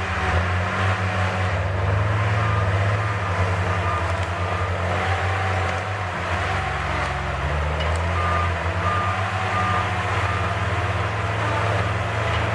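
Heavy forestry machine's diesel engine running steadily under load, with a wavering hydraulic whine over it. A short series of evenly spaced warning beeps sounds about eight seconds in.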